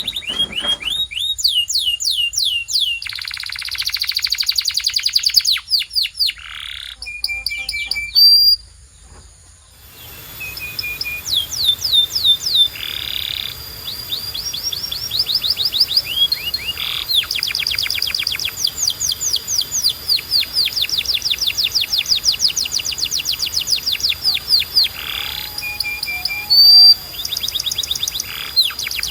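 Domestic canary singing: fast trills of rapidly repeated high sweeping notes, one tour after another, with a short pause about a third of the way through. A faint steady hiss runs under the second part.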